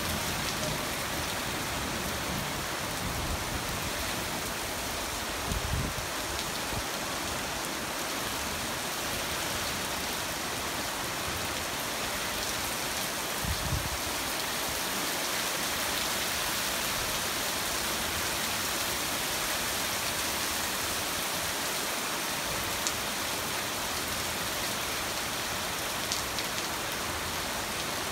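Heavy rain falling steadily on a street, an even continuous hiss. Two brief low thumps come through, at about six seconds and again near fourteen seconds.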